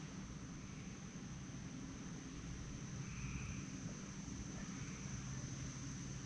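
Evening insects, crickets or katydids, chirring in a steady high-pitched trill, with softer chirps returning every second or two. A steady low rumble runs underneath.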